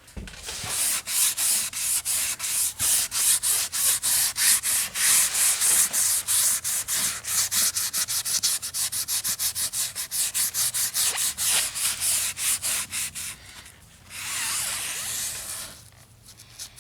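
A small sponge wet with thinner scrubbed quickly back and forth over the model's wash-painted floor, about four strokes a second, working the wash in and lightening it. Near the end the strokes give way to a short, steadier rub.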